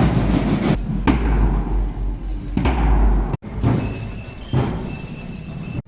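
Street parade music with drum hits over a dense, loud street din. It cuts off abruptly about three and a half seconds in and comes back thinner, with steady high tones.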